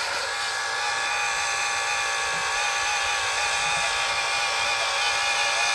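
All-metal 1/12 scale RC hydraulic excavator running its electric hydraulic pump under load as it crawls down over rock: a steady, high mechanical whine.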